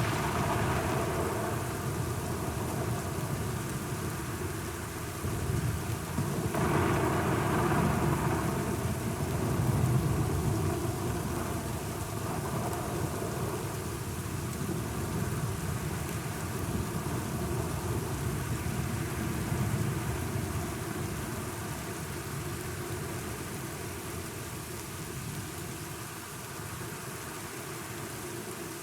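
Steady rain during a thunderstorm, with thunder rolling. A long roll of thunder swells about a quarter of the way in and slowly dies away.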